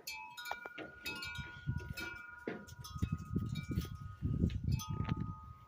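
Wind chimes ringing, several metal tones overlapping and sustaining. Low rumbling noise in the second half.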